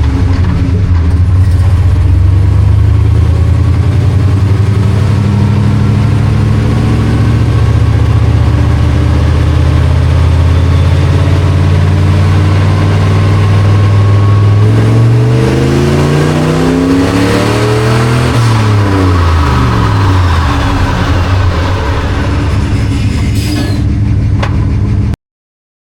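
1976 Ford F-250 engine running hard on a chassis dyno, holding a steady pitch for most of the run. About fifteen seconds in, its tones shift, some rising and some falling over several seconds. The sound cuts off abruptly near the end.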